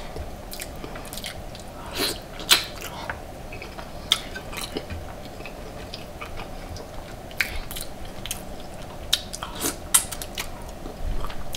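Close-miked chewing and biting: a mouth eating food, with many scattered sharp clicks and smacks.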